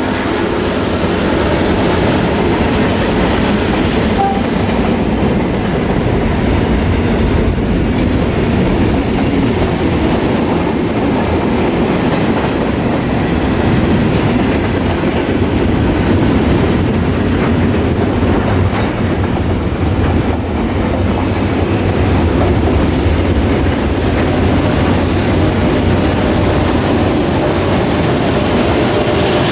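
Works train of diesel locomotives and wagons rolling past at close range: a loud, steady rumble of steel wheels on rail with clickety-clack over the rail joints and some wheel squeal.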